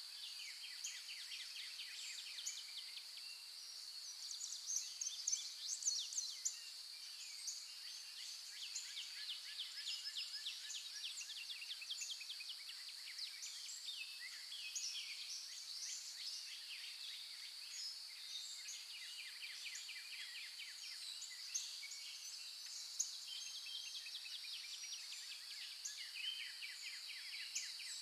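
Birdsong: many birds chirping and trilling in rapid runs of notes, over a steady high-pitched hum.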